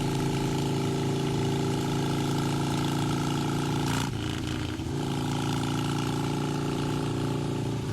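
Harley-Davidson Sportster V-twin motorcycle engine running steadily at an even speed, with a brief disturbance about four seconds in.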